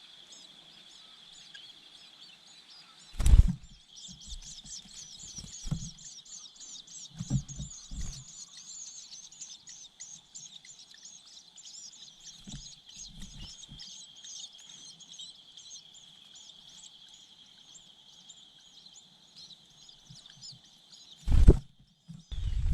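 Long-tailed shrike nestlings begging with rapid, high chirping while a parent feeds them, over a steady high-pitched whine. There are a few low knocks, with loud ones about three seconds in and near the end.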